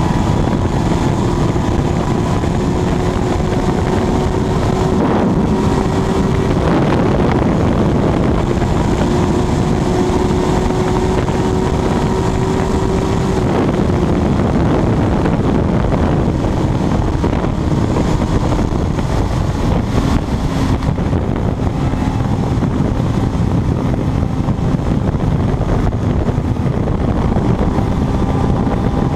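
Kawasaki Ninja sport motorcycle's engine running flat out near top speed, under heavy wind noise on the microphone. Its steady high note climbs slightly, then drops lower about halfway through.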